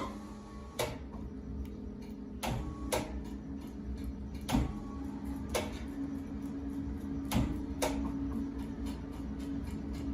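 Large woodworking lathe running with a steady low hum, with sharp clicks and knocks every second or so and faint rapid ticking in between.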